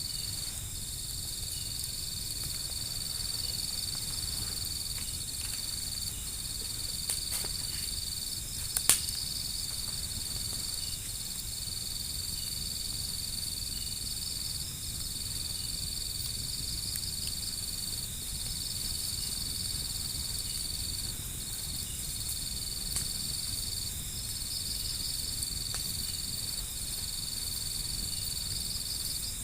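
Crickets trilling steadily in a high, continuous chirr, broken by short gaps every second or two. One sharp crack comes about nine seconds in.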